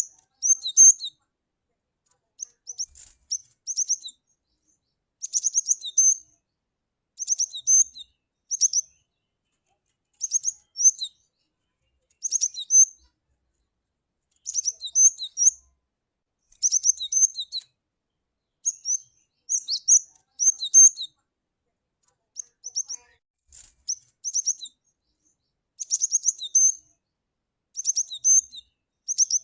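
Cinereous tit (glatik batu) calling: short clusters of a few high, sharp notes, repeated every second or two with silent gaps between.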